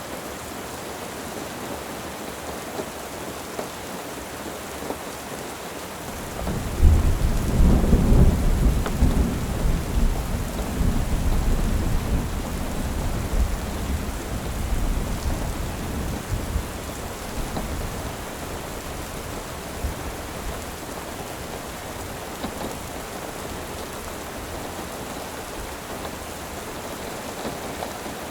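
Steady rain with a roll of thunder that breaks suddenly about six seconds in, loudest for a couple of seconds, then rumbles away over about ten seconds.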